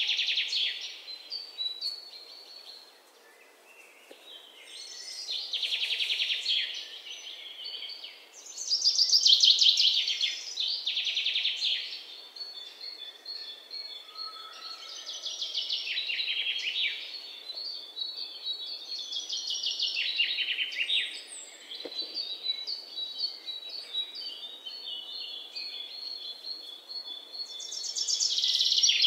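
Small songbirds trilling and chirping in repeated rising-and-fading phrases, with thin whistled notes between them.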